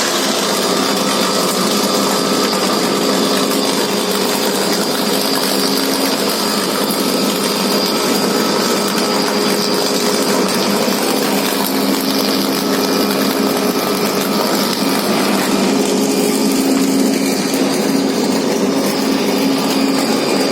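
Electric arc furnace running in its start-up phase: the arcs from its three electrodes into the charge give a loud, steady, rough roar with a steady hum running through it.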